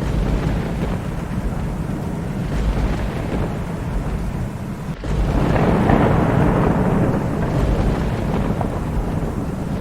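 Thunderstorm: steady rain with low rolling thunder throughout, and a louder peal of thunder that swells about halfway through and fades away over a couple of seconds.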